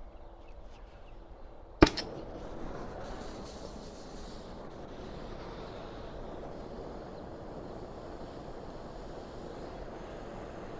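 Oxy-acetylene torch with a large heating tip lit with a single sharp pop about two seconds in, then its flame burning with a steady hiss.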